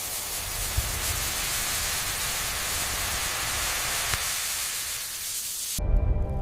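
A steady hiss with a low rumble underneath, cutting off suddenly near the end as music with sustained notes begins.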